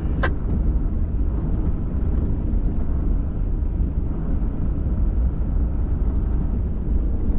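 Pickup truck driving on a trail, a steady low engine and road rumble. There is a brief click just after the start.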